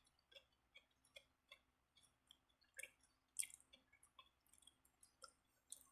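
Faint chewing while eating a sandwich: soft, wet mouth clicks, about two or three a second, with a slightly louder one just past the middle.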